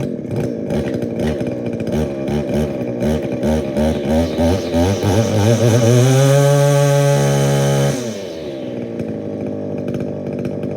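Shindaiwa string trimmer's 21.1cc two-stroke engine running just after a cold start, revving unevenly. It climbs to high revs past the middle, holds there for about two seconds, then drops back to a steady idle near the end.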